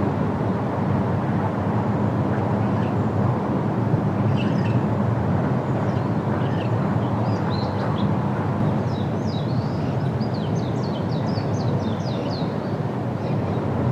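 Outdoor field recording of a steady low rumbling noise, with small birds chirping over it in quick high-pitched notes that come thickest in a rapid run past the middle.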